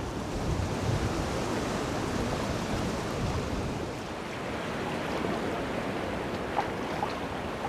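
Strong wind blowing over the microphone at an open lake: a rushing, rumbling noise that swells a little and eases without ever stopping.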